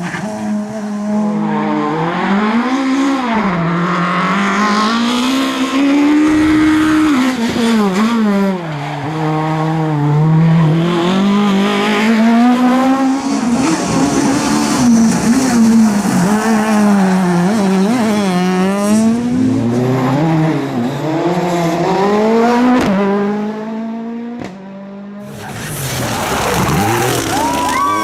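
Rally car engines revving hard, the pitch climbing and dropping again and again with gear changes and lifts off the throttle, one car after another. The sound dips briefly near the end before another car comes in.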